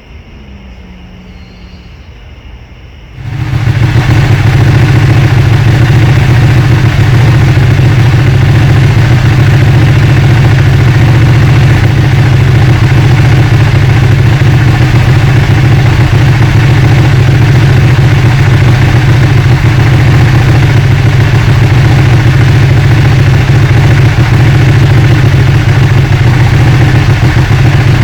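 Ducati Panigale's Superquadro V-twin engine comes in abruptly about three seconds in, then runs loud and steady at idle.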